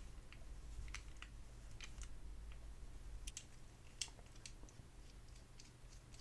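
Faint, irregular light clicks and ticks of small hand tools at work on a metal toy-car casting, with one sharper click about four seconds in.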